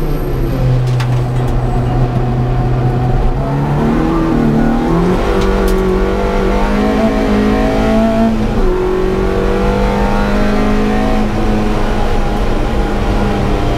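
Opel C20XE 2.0-litre 16-valve four-cylinder engine heard inside the Corsa's cabin: a low, even note at first while the car slows, then the revs climb as it accelerates from about four seconds in. About eight and a half seconds in there is a quick upshift from third to fourth, and then the revs climb again.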